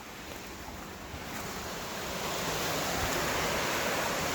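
Rushing water of a 40 ft waterfall: a steady, even roar that grows louder over the first two seconds or so and then holds.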